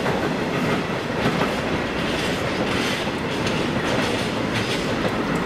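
Freight train of empty covered steel-coil wagons rolling past at steady speed, wheels clattering over rail joints and points.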